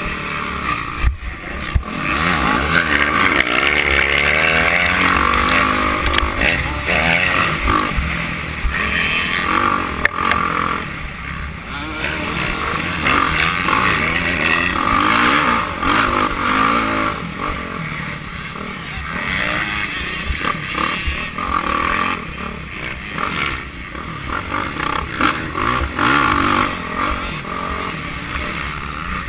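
Motocross dirt bike engines racing, their pitch rising and falling continually as the riders rev and shift around the track.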